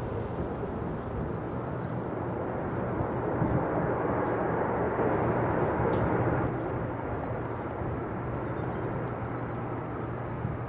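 Jet airliner passing, its engine noise a steady rumble that swells to a peak about halfway and then eases off.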